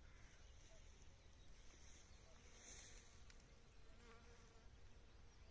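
Near silence: faint outdoor ambience with a faint insect buzz over a low steady rumble.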